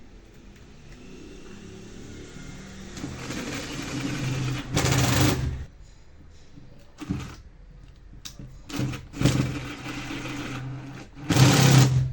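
Black+Decker 7750 angle grinder's motor switched on and off several times, running for about a second at a time. The loudest runs come about five seconds in and near the end.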